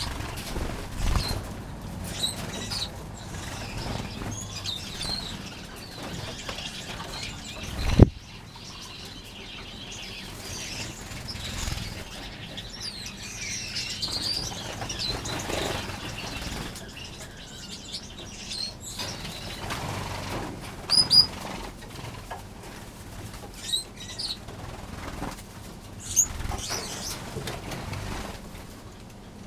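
Aviary finches chirping with short, high calls and fluttering their wings as they fly between perches. A single sharp knock about eight seconds in is the loudest sound.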